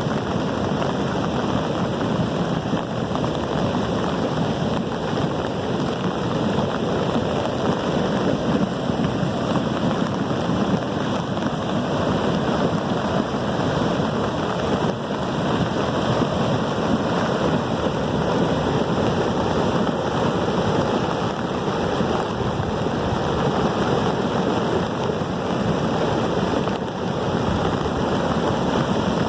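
Storm rain falling steadily, an even unbroken noise with no thunderclaps.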